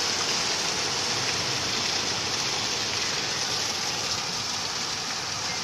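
Heavy rain with water pouring off a roof: a steady rushing hiss.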